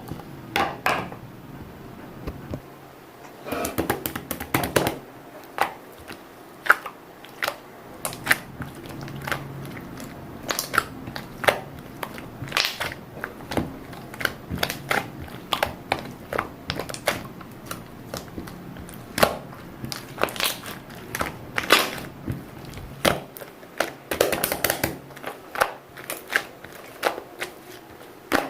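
Irregular sharp taps and clicks, several a second, with bursts of crinkling, as of small objects being handled close up, over a low steady hum.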